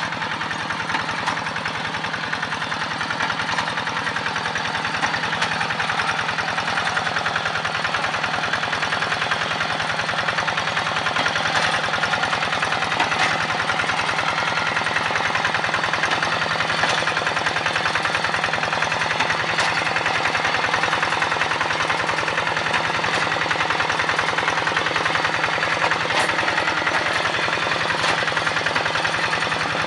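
Quick two-wheel hand tractor's single-cylinder diesel engine running steadily with a rapid, even knocking beat, a little louder from about five seconds in.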